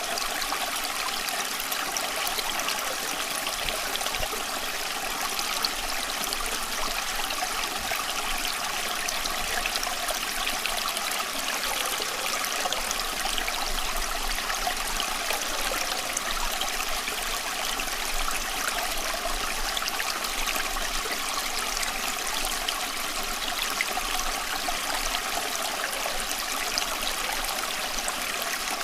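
Running water flowing continuously, a steady, even rush with most of its sound in the middle and high pitches and no breaks.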